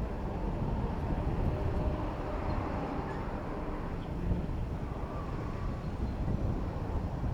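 Steady rumble of wind on the microphone and road traffic during a bicycle ride through city traffic, with no single event standing out.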